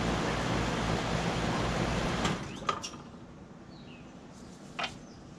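A 2012 Bryant Legacy Line 2.5-ton central air conditioner's outdoor unit runs with a steady hum and fan noise. About two seconds in it shuts off with a click, and the sound falls away quickly. Faint bird chirps and a few light clicks are left.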